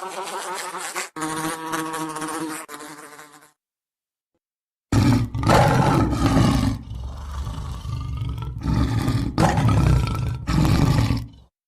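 A buzzing insect, like a fly or mosquito, drones for about three and a half seconds as the soft example. After a short pause comes a much louder, deep roar in several surges as the loud example, cutting off just before the end.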